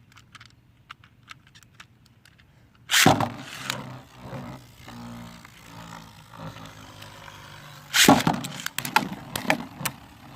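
Light clicks as Beyblade launchers are readied, then two Beyblades are launched with a sharp rip about three seconds in and spin with a steady whir in a plastic stadium. About eight seconds in they crash together in a rapid clatter of hard plastic hits, and one is knocked out.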